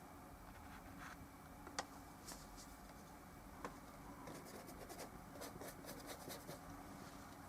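Faint scratchy strokes and dabs of a paintbrush on an oil painting surface, with a run of quick light ticks in the second half, over a steady low hum.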